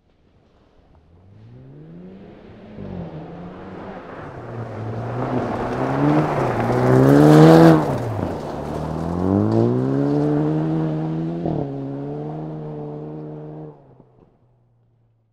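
Jaguar F-Type Convertible rally car's engine revving up and down as it slides on gravel, loudest about halfway through, then climbing and holding steady with a sharp click before fading out near the end.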